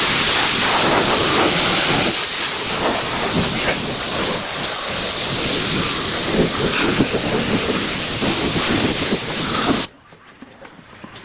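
Pressure washer spraying water in a steady hiss, cut off suddenly near the end.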